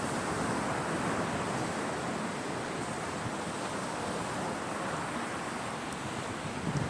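Caspian Sea waves breaking and washing on the shore in a continuous noisy surge that swells and eases slowly, with a couple of faint ticks near the end.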